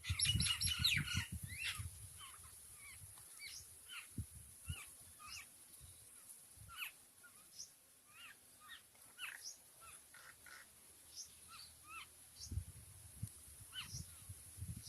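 Birds calling repeatedly, short sharp calls following one another every half second or so, with a louder, harsher burst of calls in about the first second. Low rumbling comes under the calls near the start and again near the end.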